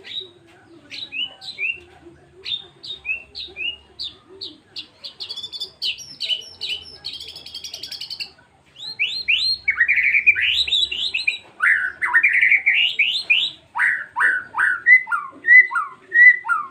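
White-rumped shama (murai batu) singing a long, varied song of quick whistled notes and chattering phrases with a buzzy trill in the middle. From about nine seconds in the song turns loud, with sharp burst phrases of the kind shama keepers call "tembakan", and it ends in a string of falling whistles.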